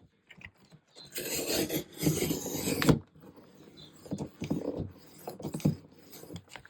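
Paper being rubbed and scraped: one long rasping scrape lasting about two seconds, starting about a second in, then a run of shorter rustles and scrapes.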